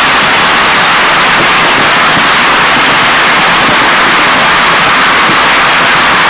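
Fireworks crackling without a break, the pops so thick that they merge into one loud, steady hiss that stays at the same level throughout.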